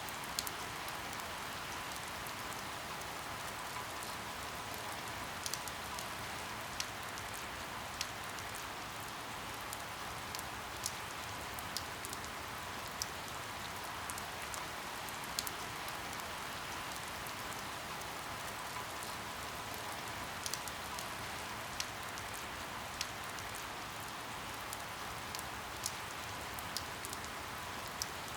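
Steady rain falling, an even hiss with scattered louder drip ticks at irregular intervals every second or two.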